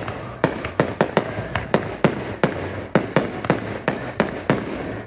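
Fireworks going off in a rapid, irregular series of sharp bangs, about four a second, each with a short echo.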